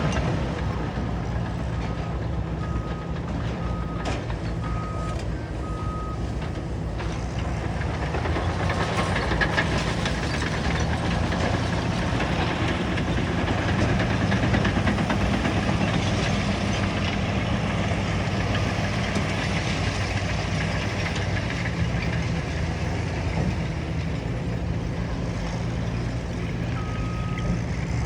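Caterpillar bulldozer's diesel engine running steadily under load as it works rubble fill, with a couple of sharp clanks. A reverse alarm beeps about five times early on and once more near the end.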